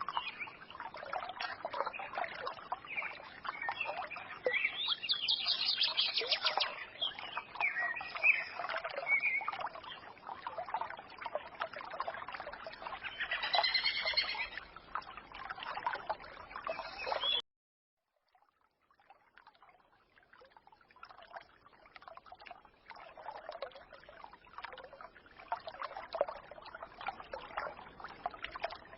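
A forest stream trickling, with birds chirping and twittering over it. About two-thirds of the way in the sound cuts out abruptly to silence, then the stream fades back in a couple of seconds later.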